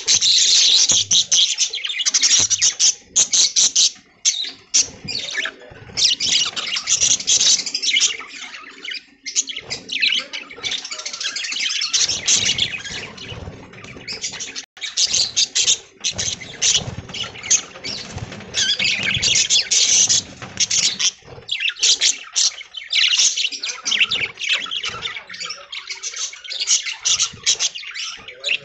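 A flock of budgies chattering, a dense stream of fast, high twittering chirps and squawks with short pauses.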